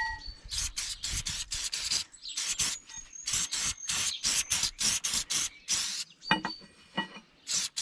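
Aerosol can of Soft Seal corrosion-protection coating being sprayed in many short bursts, a few per second.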